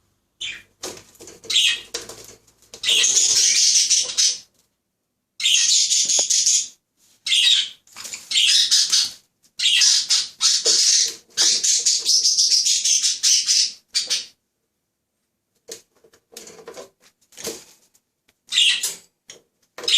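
Caique parrot bathing, splashing water and flapping its wings in repeated bursts of a second or two with short pauses. The bursts turn smaller and sparser near the end.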